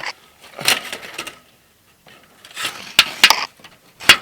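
Consumer fireworks going off: several clusters of sharp cracks and pops, spaced a second or two apart.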